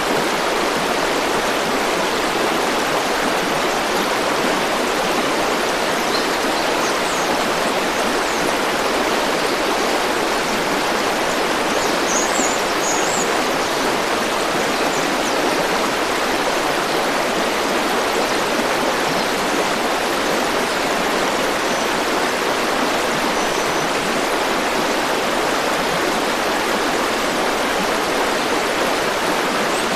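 Stream or river water rushing steadily, an even full flow with no pauses. A few faint high chirps sound briefly around the middle.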